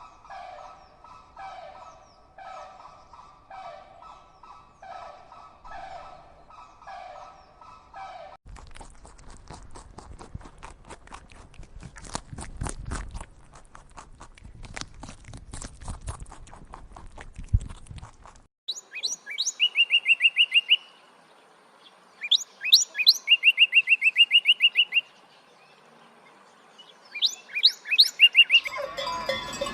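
A sequence of bird sounds. First, a call repeated evenly about every two-thirds of a second for several seconds. Then rapid, irregular clicking and tapping, and finally high chirps with quick rising sweeps and fast trills from a songbird.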